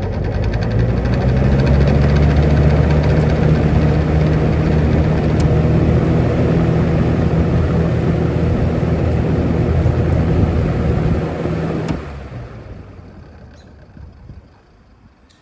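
Evenflow by Robeson 20-inch box fan running, heard close up from behind: a steady motor hum under a loud rush of air from the blades. About twelve seconds in the sound drops sharply and then fades away as the fan winds down.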